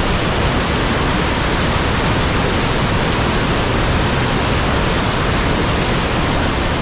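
Steady, loud rush of a large waterfall, an even roar of falling water with no breaks.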